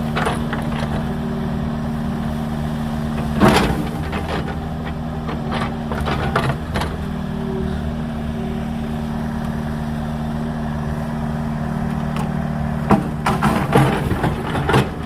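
Small agricultural excavator's engine running steadily, with a loud knock about three and a half seconds in and a few more knocks near the end.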